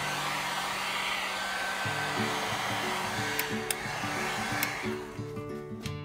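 A small electric power tool or blower running steadily with a rushing noise that swells and eases in slow sweeps, dying away near the end. Acoustic guitar background music plays under it.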